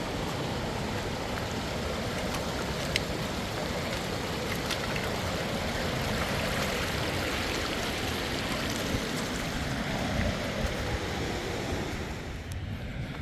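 Steady rush of a mountain stream running, with a couple of faint clicks; the rushing sound drops away near the end.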